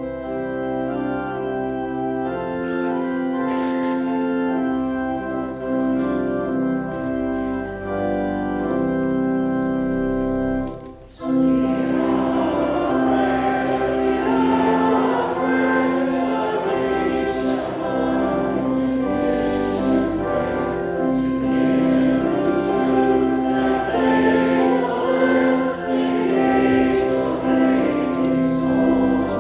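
Church organ playing held chords, then after a short break about 11 s in, a choir singing with the organ.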